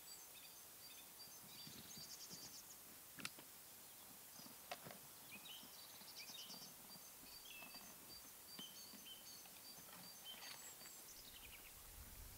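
Faint songbirds chirping and trilling over quiet open-air ambience, with two sharp clicks, about three seconds in and again a second and a half later.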